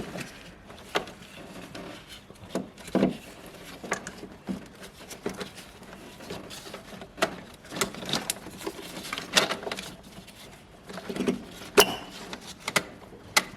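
Irregular clicks, knocks and rattles of hand tools and metal and plastic parts being handled during reassembly work on a car.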